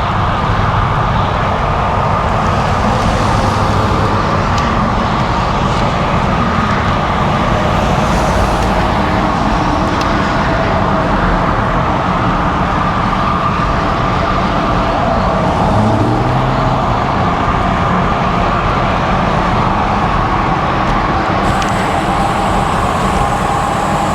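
Steady road traffic noise: cars and trucks running past a moving bicycle, over a constant low rumble.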